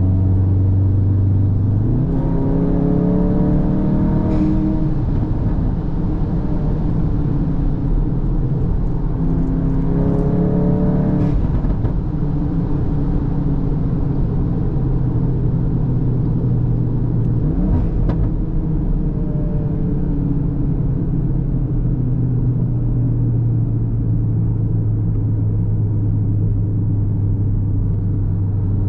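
Cupra Formentor's turbocharged 2.0 TSI four-cylinder engine and exhaust accelerating, rising in pitch twice in the first dozen seconds, then dropping back and running at a steady low drone while cruising, with tyre and road noise underneath.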